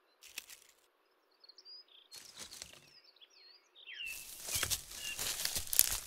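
Dry twigs and nest material rustling and crackling as a griffon vulture gathers it, with small birds chirping in the background. The rustling grows denser and louder about four seconds in.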